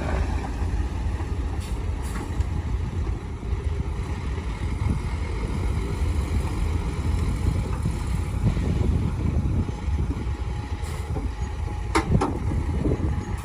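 Heavy diesel earthmoving machinery running steadily with a low rumble, with a couple of short, sharp sounds near the end.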